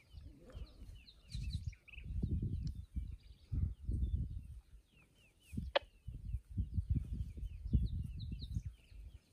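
Wild birds chirping, a steady run of short, falling chirps, over low buffeting noise that comes and goes in gusts. One sharp, quickly falling note stands out about six seconds in.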